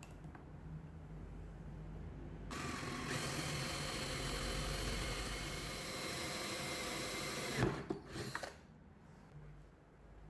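A small power tool runs steadily for about five seconds, then a sharp knock and a few lighter clicks as it stops.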